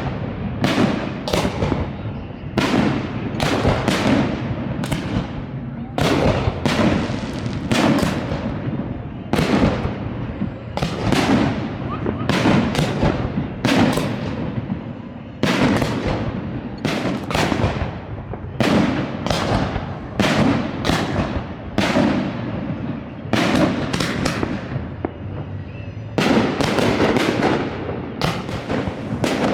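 Fireworks display: shells bursting one after another, about one to two sharp bangs a second, each trailing off in an echo. The bursts come thickest in the last few seconds.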